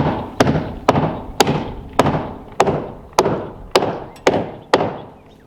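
A run of about ten sharp knocks, roughly two a second, each ringing briefly and fading before the next.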